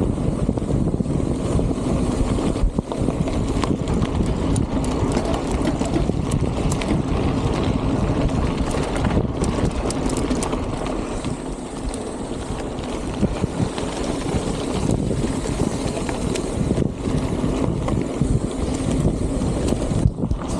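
Strong wind buffeting a microphone carried on a moving bicycle, a steady loud rushing with no let-up.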